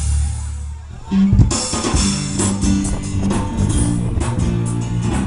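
Praise band playing an instrumental passage on electric guitar, bass guitar and drum kit, with no singing. A held low bass note fades over the first second, then the full band comes in with a steady beat.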